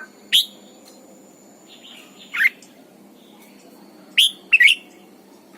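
Red-whiskered bulbul calling in short, loud, sweeping notes: one about half a second in, another about two and a half seconds in, then two in quick succession near the end.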